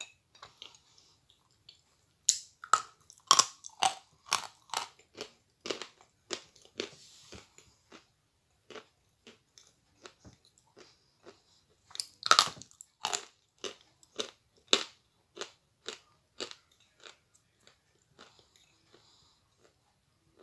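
Close-up chewing of dry edible clay (Astana Ideal) in the mouth: a run of sharp crunches, about two a second, with the loudest cluster about twelve seconds in. It is sparser at the start and near the end.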